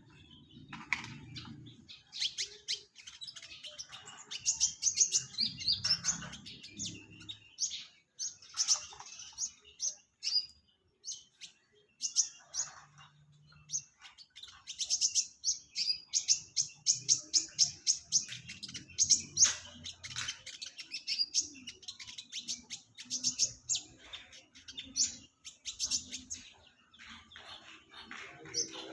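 A sunbird known in Indonesia as the kolibri ninja singing: runs of rapid, sharp, high chirps and short trills in bursts, with brief pauses between them.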